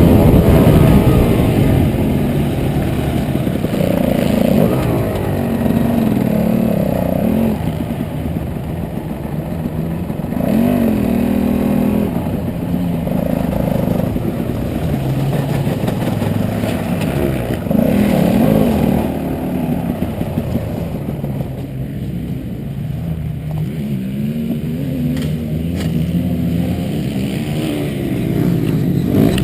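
Motocross dirt bike engine being ridden hard, its pitch rising and falling over and over as the throttle is opened and closed.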